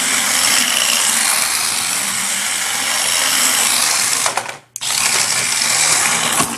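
Toy RC drift car's small electric motor and gears whirring as it drives. The whirring cuts out briefly about four and a half seconds in, starts again, and stops near the end.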